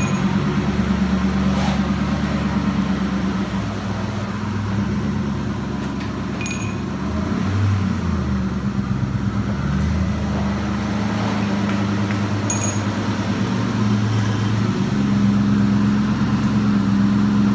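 Supercharged 4.6-litre DOHC V8 of a 2003–04 Mustang SVT Cobra running at idle and low speed, its note shifting briefly about halfway through. The car is being run after a new clutch, throwout bearing and pilot bearing were fitted.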